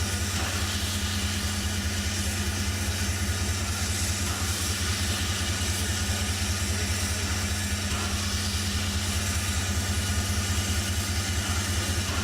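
Steady mechanical running sound: a low hum with a fast, even throb, like a machine or engine idling.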